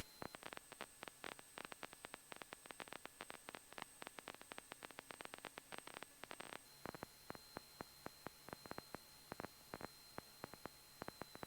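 Faint crackling static, irregular clicks over a low steady hum and thin high tones, on the cockpit radio and intercom audio feed between transmissions.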